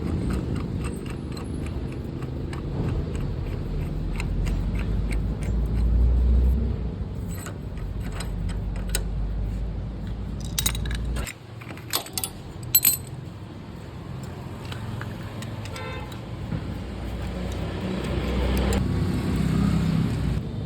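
Motorcycle engine running with a fast metallic ticking rattle, the sound of a loose, noisy timing chain. The engine's running drops out abruptly about halfway, a few sharp clicks follow, and it comes back a few seconds later.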